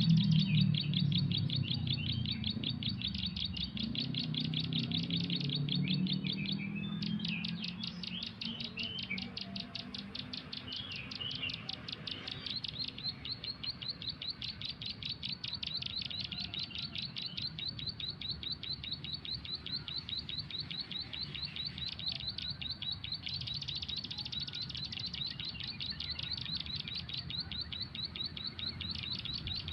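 Bird chirping: a rapid, even run of short high chirps that keeps going without a break. Low music fades out in the first few seconds.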